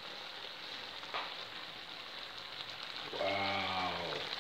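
Curry turkey neck sizzling steadily in its pot as it cooks down in its own juices, with a short click about a second in. Near the end a man gives a short hummed sound lasting about a second.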